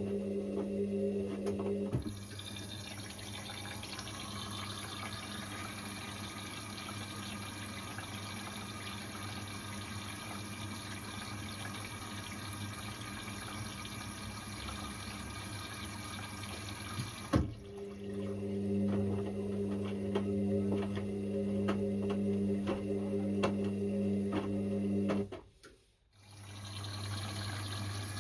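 Indesit IWC6165 front-loading washing machine filling with water early in a cotton wash, a steady rush of water into the drum. A low electrical hum from the machine cuts out about two seconds in, comes back with a click two-thirds of the way through, and stops again briefly near the end.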